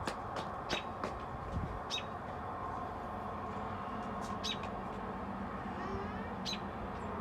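Small birds chirping in short, high calls, one or two at a time every second or so, over a steady low background hum.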